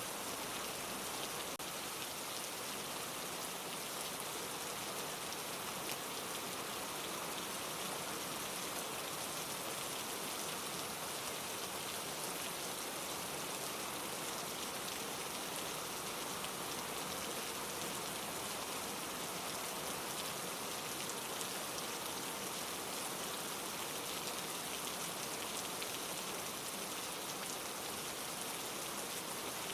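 Steady rainfall: an even hiss of many fine drops pattering on leaves, with no change in level.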